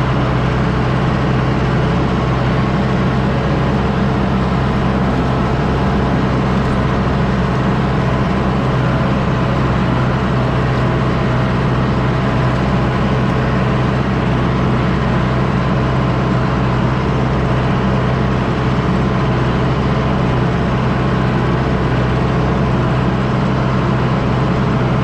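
Diesel engine of a John Deere 6110D four-wheel-drive tractor running steadily while pulling a disc harrow, with a deep, even hum that does not change.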